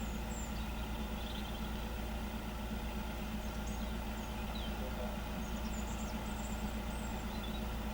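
A motor vehicle engine idling steadily, with a few faint high chirps over it.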